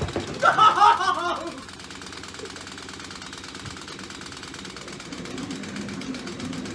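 A short shouted exclamation, then a steady, fast mechanical rattle of small electric motors and plastic gears running on a Lego combat robot.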